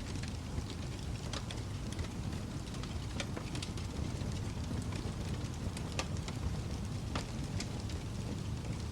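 Wood fire in a fireplace burning with a steady low rush and irregular sharp crackles and pops, several a second, a few louder snaps among them.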